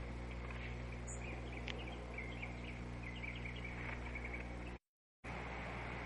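Small birds chirping in quick, short, high notes over a steady electrical hum; the sound drops out completely for about half a second just before five seconds in.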